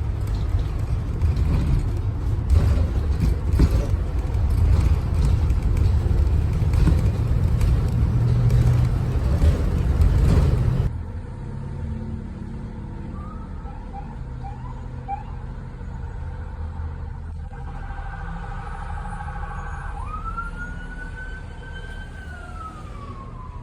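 A loud low vehicle rumble fills the first half, then cuts off. An emergency vehicle siren follows: a few short chirps, a rapid warbling yelp, and near the end a wail that rises and then slowly falls.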